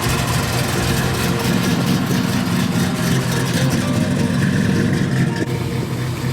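A car engine running at idle with a deep, pulsing exhaust rumble that swells about a second and a half in and eases a little near the end.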